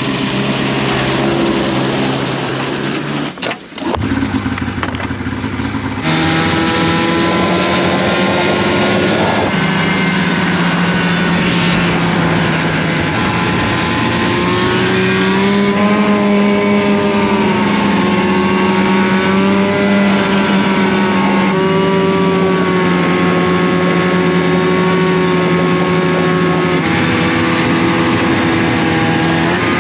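Two-stroke snowmobile engine running at speed on the trail, holding a steady note with small rises and falls in pitch. The sound drops out briefly a few seconds in, then comes back louder.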